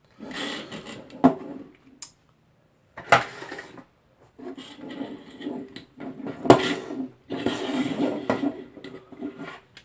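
Hands handling hard network wiring hardware: rustling and scraping in several bursts, with sharp plastic-and-metal clicks and knocks, the loudest about six and a half seconds in.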